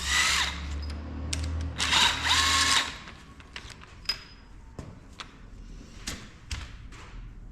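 Handheld power tool run twice in short bursts, its motor spinning up each time, as engine fasteners are worked loose; then scattered clinks and knocks of metal tools and parts.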